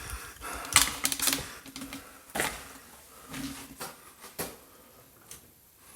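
Irregular light clicks and knocks, a few a second, growing fainter toward the end.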